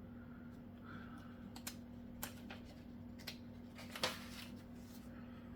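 A few faint, scattered light clicks and taps from handling small items, the clearest about four seconds in, over a steady low electrical hum.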